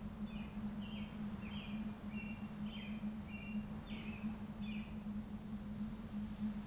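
A small bird singing a run of about nine short high notes, some slurring downward, ending about five seconds in. Under it runs a steady low hum with faint background noise.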